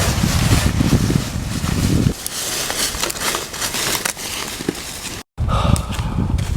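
Wind buffeting the microphone, with crunching, crackling footsteps on dry forest ground, broken off by an abrupt cut about five seconds in.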